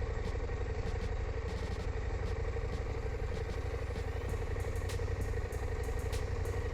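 KTM 890 Adventure motorcycle's parallel-twin engine running steadily while being ridden.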